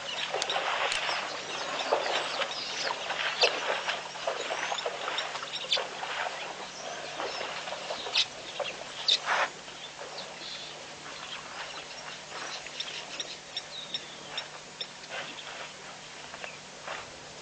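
A busy mix of short wild bird calls, chirps and clucks, loudest in the first few seconds and thinning out later, with two sharp clicks about 8 and 9 seconds in.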